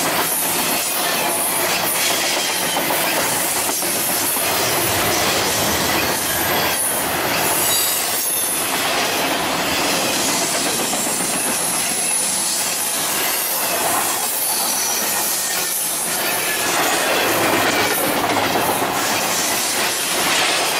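Double-stack container well cars rolling past at close range: steady wheel-on-rail noise and rattle, with occasional knocks and thin, intermittent high-pitched wheel squeal.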